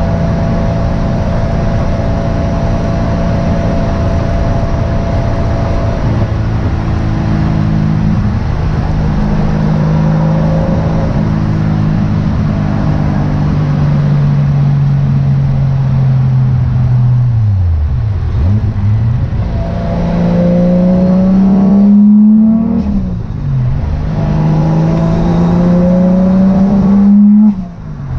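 Turbocharged 1JZ VVT-i straight-six in a Nissan 240SX, first cruising steadily with its pitch slowly falling. Then it makes two hard pulls with rising revs, each cut off abruptly on throttle lift-off about three-quarters of the way in and near the end, where the turbo flutters.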